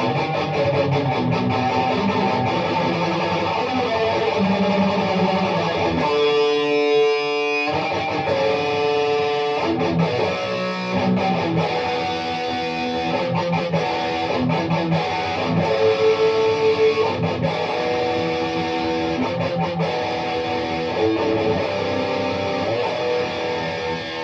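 Electric guitar music.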